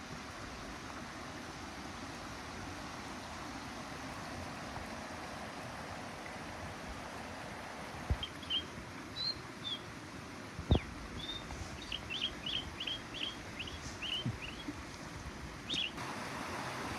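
A small bird chirping in short high notes, a quick series of them about halfway through, over a steady outdoor rushing noise. Two sharp knocks come in the middle.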